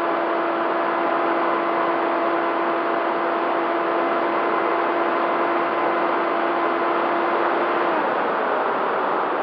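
Bixler 3 RC plane's electric motor and propeller whining at a steady pitch under loud rushing airflow on the onboard camera's microphone. A little after eight seconds in, the motor's whine falls away in pitch and fades while the air noise carries on.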